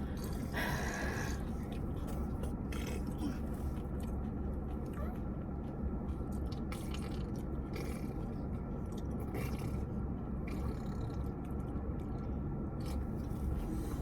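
Mouth sounds of someone chewing food, with scattered small crunches and rustles over a steady low hum.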